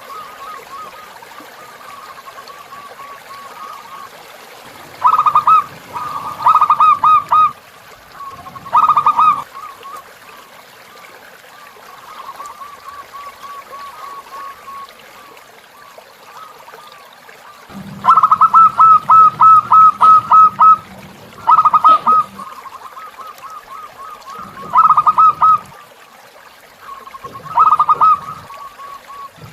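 Zebra doves (perkutut) cooing in repeated bursts of rapid staccato notes, the longest a run of about ten notes a little past the middle. A fainter dove coos steadily between the bursts, over trickling river water.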